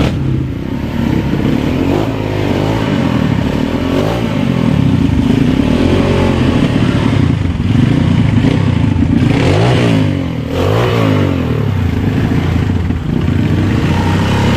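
Trail motorcycle engine revving, its pitch rising and falling again and again.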